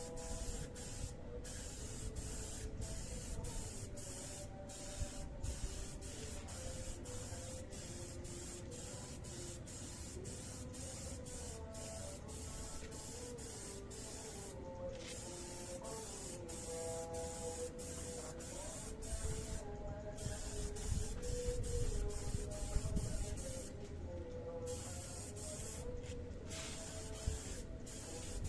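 Clear coat being sprayed onto a motorcycle engine: a hissing spray that runs on with many brief pauses where the trigger is let off, over a low rumble.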